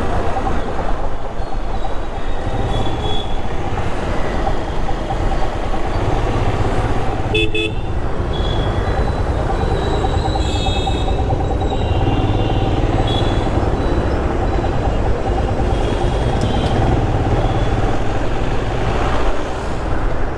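Road traffic with a steady low engine rumble and a few short vehicle horn toots, the clearest about seven seconds in and again about ten seconds in.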